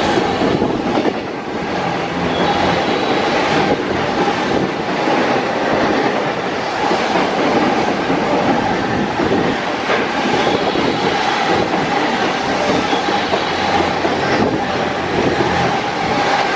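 Freight train wagons running past on the rails: a steady, even noise of wheels on track.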